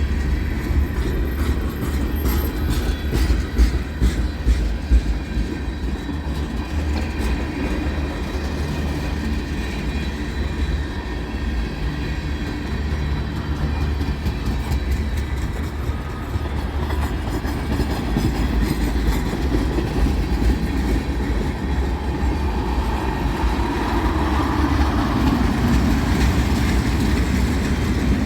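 Train running on the rails: continuous wheel-and-rail rumble with the clickety-clack of wheels over rail joints, most marked in the first few seconds, growing a little louder near the end.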